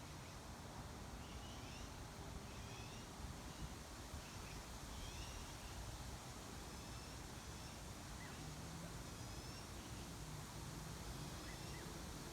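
Faint bird chirps, short and scattered, over a steady low outdoor rumble.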